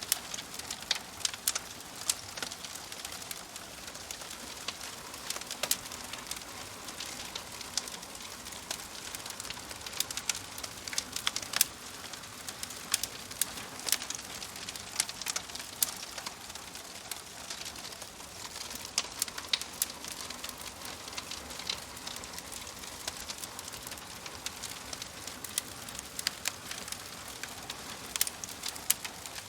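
Wood logs burning in a fireplace: a steady soft hiss with frequent sharp, irregular crackles and pops.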